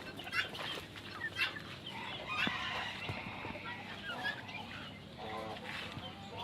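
A flock of chickens clucking, many short calls overlapping, with one longer call about five seconds in.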